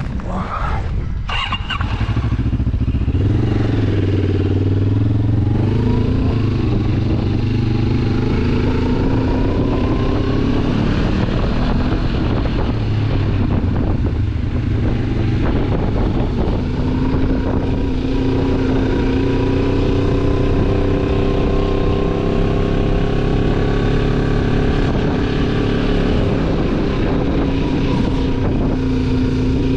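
Motorcycle engine under way, rising in pitch over the first few seconds as it accelerates, then running at a fairly steady speed with small changes in pitch.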